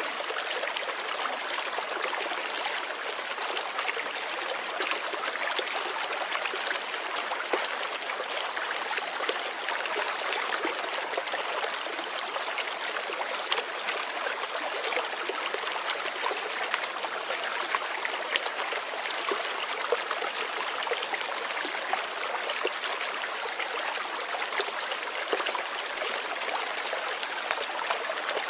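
Light rain falling steadily: an even hiss with many small drop ticks.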